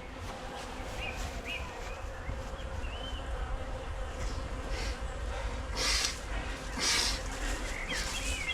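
Honey bees buzzing around an open hive during an inspection, with two short scrapes about six and seven seconds in as a wooden frame is fitted into the hive box.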